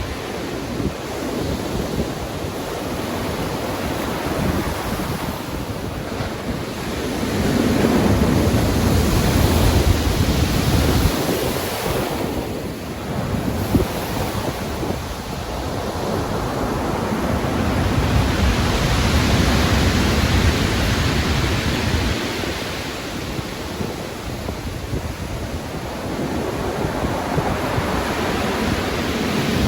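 Stormy sea: heavy ocean waves breaking and washing in under wind, in a continuous rush of noise. Two big swells build and fall away, deep and rumbling, with a short lull between them.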